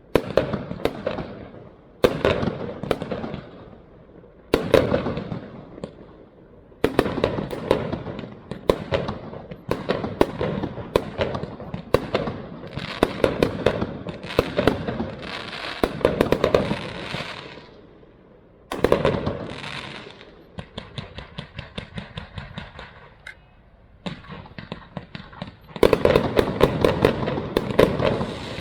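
Fireworks display: aerial shells bursting one after another, each sharp report trailing off, with stretches of dense crackling. About two-thirds of the way through comes a run of quick, evenly spaced pops, and near the end a dense rapid volley of bursts.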